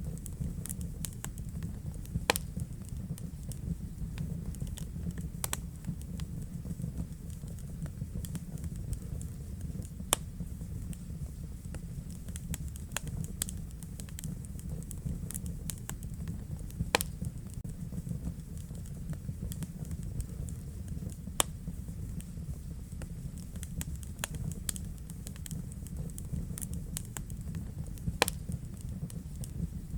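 Wood fire burning in a fireplace: a steady low rumble of the flames with irregular crackles and pops, a few sharper snaps standing out every several seconds.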